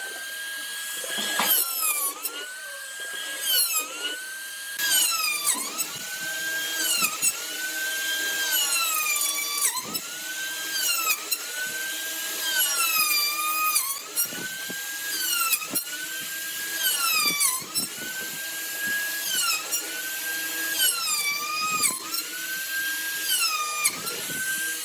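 Small electric power tool motor, drill-like, whining at high speed. Its pitch dips and recovers roughly every one and a half seconds as it is repeatedly loaded into the wood and eased off.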